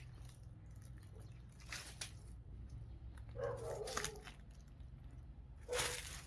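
A dog barking, a short call about three and a half seconds in and another near the end, over scattered crunching sounds and a low steady hum.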